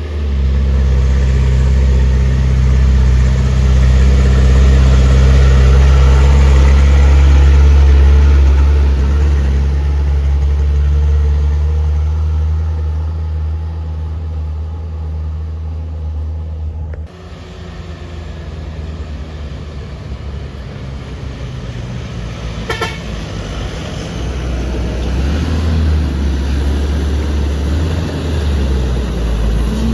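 Heavy diesel truck engine climbing a steep hill, a deep steady drone that swells as the truck comes close and fades as it goes. About two-thirds of the way through it cuts off abruptly and another truck's engine takes over, growing louder near the end, with one sharp tick in between.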